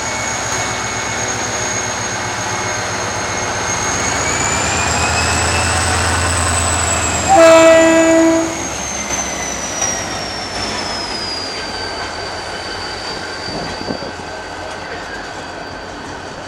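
GT22 diesel-electric locomotive pulling out with a train: engine running under load with a low rumble and a high whine that rises, then falls in pitch. Sounds one short horn blast, about a second long, a little past the middle.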